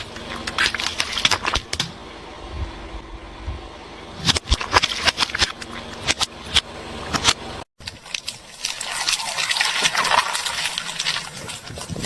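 A car rolling slowly over brittle objects and crushing them, with sharp cracking and crackling over the low hum of the running engine. A cut about two-thirds of the way through jumps to another crushing, which is a denser crackle.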